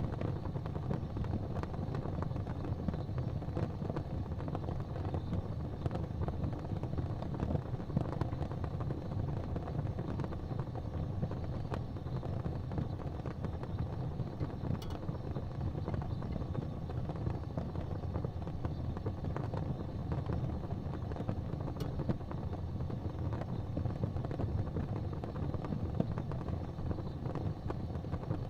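Fireplace fire burning with a steady low rumble and scattered faint crackles.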